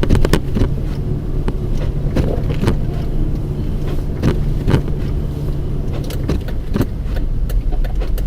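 Inside a moving car: steady engine and tyre rumble, with short knocks that come in pairs about every two seconds.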